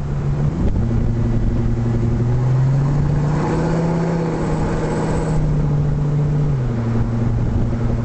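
LPG-fuelled Ford F-350's 6.8-litre Triton V10 engine running under load. Its note steps down just after the start, climbs steadily to a peak around the middle, and drops back in a step about two-thirds of the way through.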